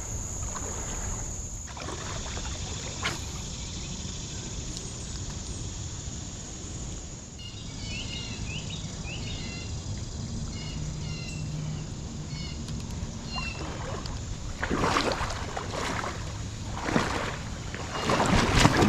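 Creek outdoor ambience: a steady wash of water noise with a high, thin, steady insect buzz for the first seven seconds, then a bird's short chirps, then a few louder splashy bursts that grow stronger near the end.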